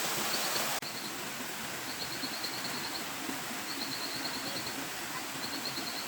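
Steady rain falling on forest, a dense even hiss. Over it a small bird gives short high trills, each about a second long, repeated several times at even intervals.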